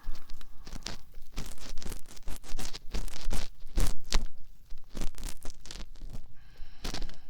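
Ear pick scraping and rubbing inside the ear of a binaural dummy-head microphone: close, irregular scratchy strokes in quick succession.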